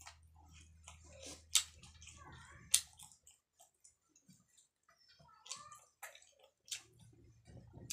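Close-miked mouth sounds of someone chewing grilled chicken eaten by hand, with several sharp smacks and clicks, the loudest two about a second and a half and under three seconds in. A low hum sits under the first three seconds.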